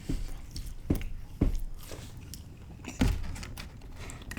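Close-miked chewing of pizza, with four short sharp crunches at uneven intervals.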